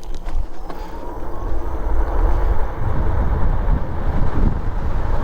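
Twin NBpower 2 kW direct-drive hub motors of a dual-motor e-bike accelerating hard from a standstill, with a faint whine rising in pitch over the first second or two. Wind buffeting on the microphone builds as the bike gathers speed and becomes the loudest sound.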